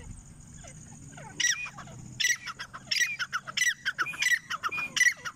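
Grey francolin calling: a run of harsh, high repeated notes that starts about a second and a half in and keeps up, roughly two notes a second.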